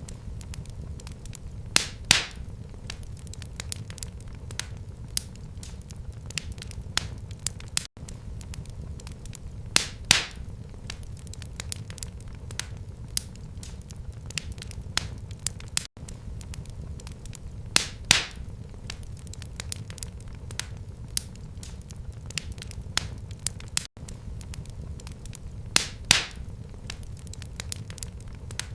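Wood fire crackling in a fireplace: a steady low rumble of flames with scattered small crackles and one loud pop every eight seconds. The same stretch of sound repeats every eight seconds, with a brief dropout at each join.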